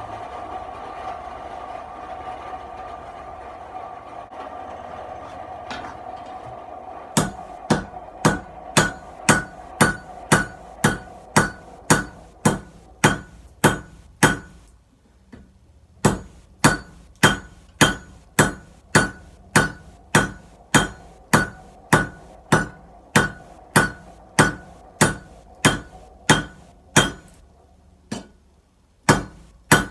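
A steady forge hum, then from about seven seconds in a hand hammer strikes a Damascus billet at welding heat on the anvil, about two blows a second, each with a ringing clink, squaring the billet. The hammering stops briefly about halfway through and again near the end.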